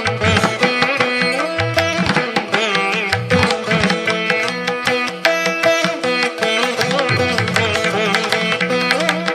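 Instrumental Indian background music in a Carnatic style: plucked strings playing a melody over a steady tabla beat.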